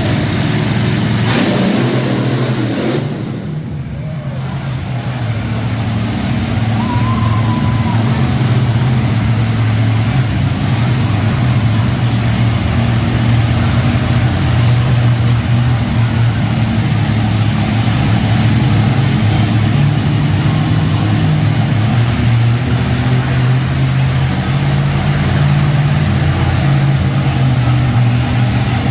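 Monster truck engines running and revving loudly, with a brief dip in level a few seconds in before they build back up.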